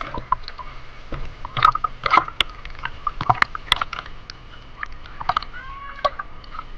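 A run of irregular sharp clicks and crunches, thickest between about one and a half and four seconds in.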